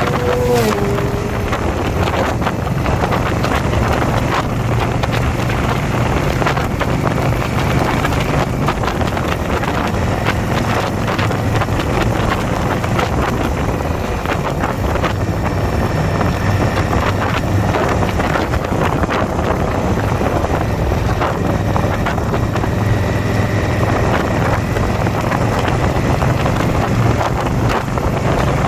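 Motorcycle V-twin engine running steadily under way, with heavy wind noise on the microphone.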